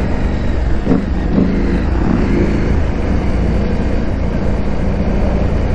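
KTM 890 Adventure R's parallel-twin engine running while riding off-road, with the revs rising briefly about a second in.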